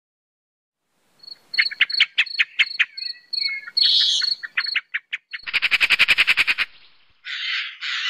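Birds calling: a run of sharp clicking notes begins about a second in. A fast, loud rattling trill follows, then harsh rasping calls near the end.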